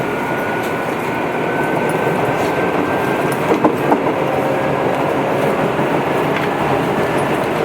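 Tobu 8000 series electric train running between stations: steady running noise with a faint tone slowly rising in pitch, and two sharp clacks of the wheels over rail joints about three and a half seconds in.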